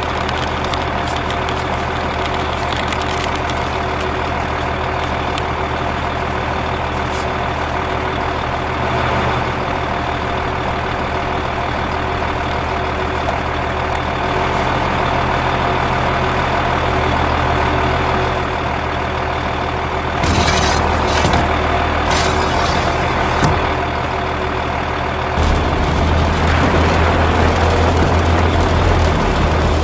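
A heavy vehicle engine running steadily at one pitch, like a truck idling. It gets a little louder about two-thirds of the way through, and a deeper, louder hum sets in near the end.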